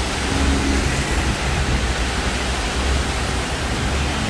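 Heavy rain pouring down steadily, with a low rumble of cars on the flooded street underneath.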